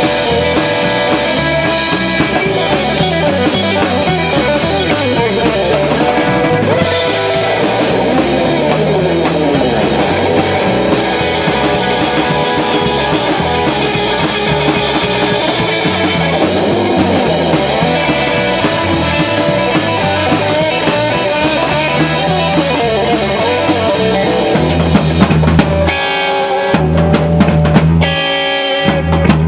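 Live band music with drum kit and guitar playing steadily; in the last few seconds the band switches to loud stop-start chord hits separated by short breaks.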